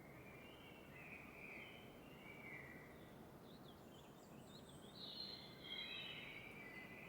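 Faint birdsong: soft warbling phrases and quick chirps over a low, steady hiss, with the song strongest in the last two seconds.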